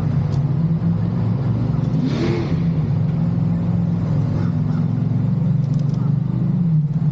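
Motorcycle engine running steadily at a raised speed, with a brief rushing noise about two seconds in and a small change in engine pitch near the end.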